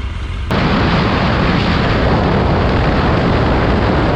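Heavy wind noise buffeting the microphone of a motorcycle under way. It cuts in abruptly about half a second in, over a low engine hum, and then holds steady.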